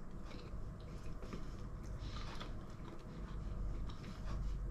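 Quiet chewing of a mouthful of bread, with faint mouth clicks and smacks over a low steady room hum.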